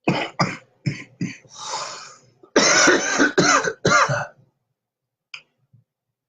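A man coughing: four short coughs, a breathy exhale, then a longer, harsher run of coughs with voice in them, and a couple of faint small sounds near the end.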